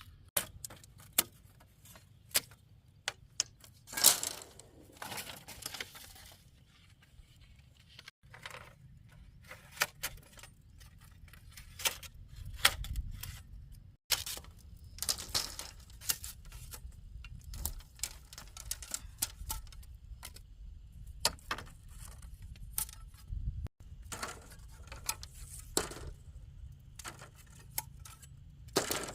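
Irregular clicks, taps and knocks from hand work with materials, with a few short scraping or rasping noises, over a low steady rumble.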